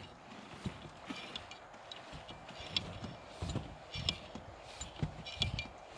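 Irregular light knocks and clicks, spaced unevenly about half a second to a second apart, with no engine running.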